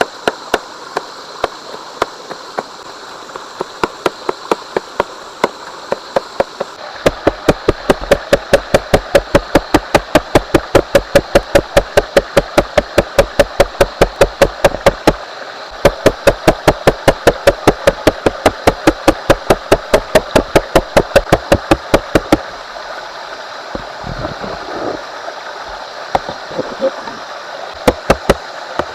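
Rapid, even knife chops on a cutting board, about four strokes a second, starting after a few scattered cuts, pausing briefly midway and stopping well before the end, over a steady background rush of running water.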